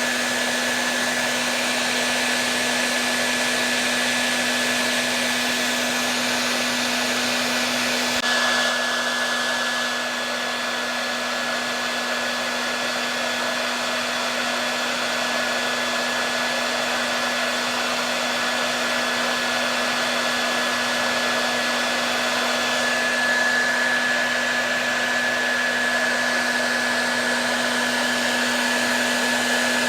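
Hair dryer running steadily: an even rush of blown air with a constant low motor hum and a thin high whine.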